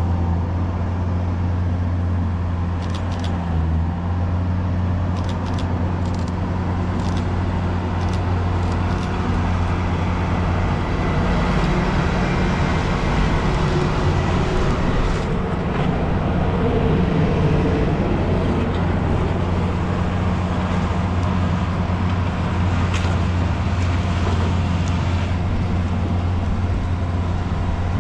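Train with a steady low hum and running noise that swells slightly midway, with a few faint clicks in the first several seconds.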